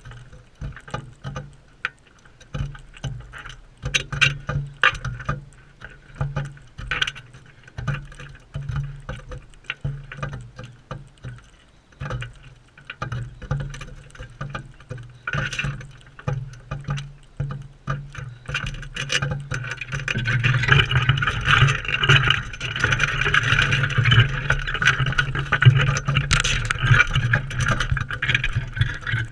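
Crimson rosellas feeding right at the camera: irregular clicks and knocks of beaks and feet on the feeder and seed. About two-thirds of the way through a louder, steady rustling hiss sets in.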